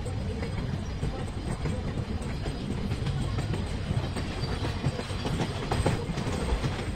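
Puffing Billy narrow-gauge heritage train's carriages rolling along the track: a steady low rumble with irregular clatter of the wheels over the rails.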